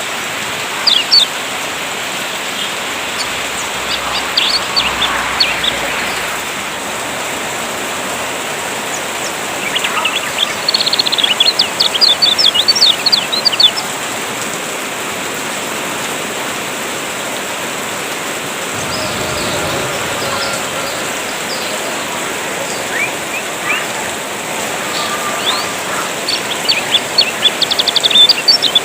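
Kecial kuning songbird singing in bursts of rapid high chirps and trills over a steady rain-water hiss. The song comes in several spells, the longest about ten seconds in and again near the end.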